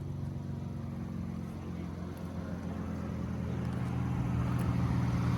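A car engine running at a steady low idle, growing gradually louder.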